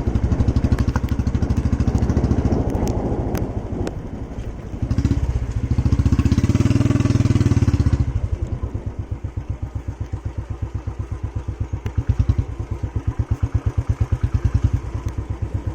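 Motorcycle engine running while riding, loud for the first half, then easing off to a lower, evenly pulsing idle for the rest.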